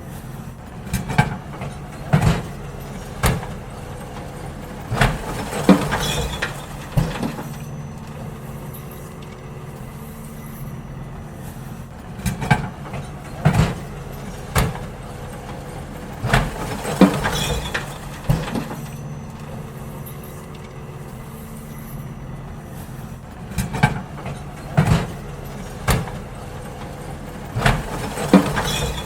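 Garbage truck engine running steadily while bins are emptied, with clusters of sharp bangs and clanks every few seconds.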